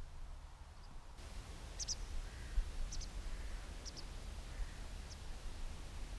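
A small bird's short high chirps, four of them about a second apart, over a low wind rumble on the microphone.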